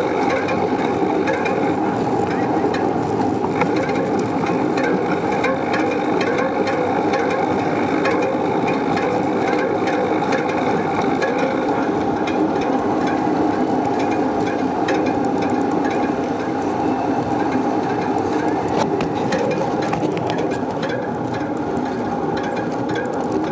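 Steady rattling and road rumble of a bicycle being ridden, with scattered clicks and knocks, more of them near the end.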